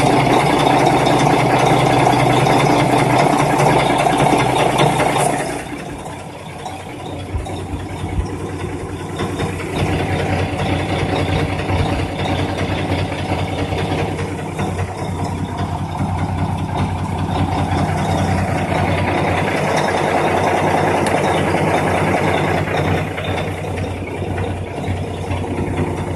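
Chinese 5 kW diesel air heater running with a steady hum from its blower and combustion fan. The sound drops noticeably about five seconds in, then builds back and holds steady.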